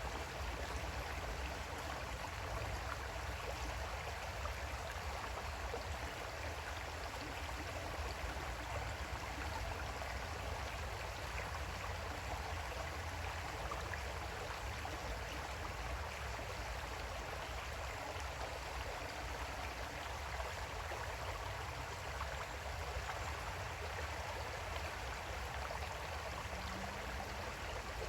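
Small creek flowing steadily, water running and babbling over stones.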